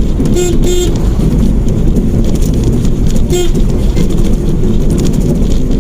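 Car horn tooted twice in quick succession, then once more about three seconds later, over steady road and engine noise inside a moving car.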